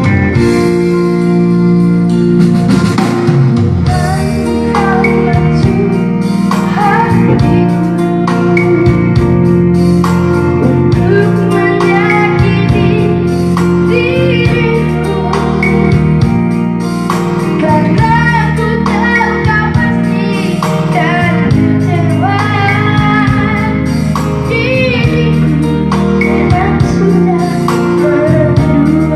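A child singing a pop song over band accompaniment with guitar, the voice coming in a few seconds in.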